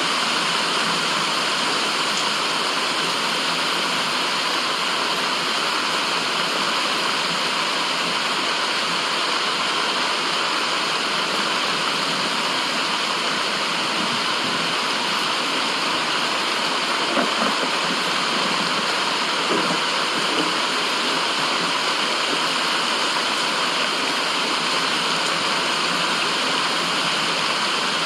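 Steady rushing of flowing water, an even continuous hiss with no change in level, broken only by a couple of small brief knocks a little past the middle.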